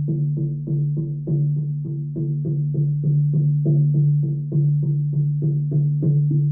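Shaman's frame drum beaten in a steady, even rhythm of about three to four strokes a second, its low ringing tone sustained between the strokes.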